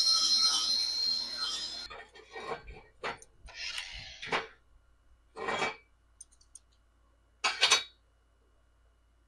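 Stick welding arc crackling, which cuts off abruptly about two seconds in, followed by several short scraping strokes on metal.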